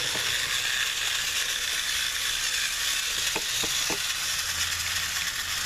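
Several battery-powered TrackMaster toy trains running on plastic track, a steady whirring buzz of their small motors and gears, one engine having a bit of a noisy gear. A few faint short clicks come about three to four seconds in.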